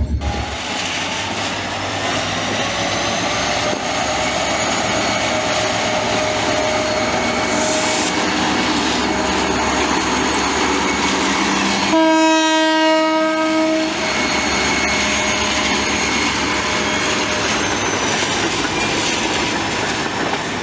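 Diesel-hauled train running steadily past, locomotive engine and rolling wheels, with one horn blast of about two seconds roughly twelve seconds in.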